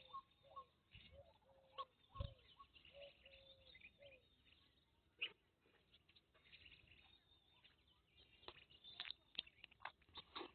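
Near silence, with faint bird chirps, short repeated notes, over the first few seconds. A few faint clicks come near the end.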